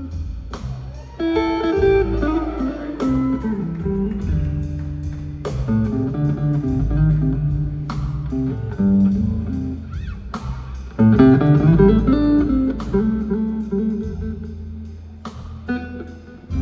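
Slow blues played on guitar over a low bass line, the guitar notes bending and sliding, with a sharp hit every couple of seconds.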